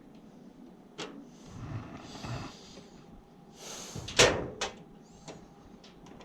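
Handling noises: a click, a stretch of rustling, then a sharp knock about four seconds in, followed by a few smaller clicks.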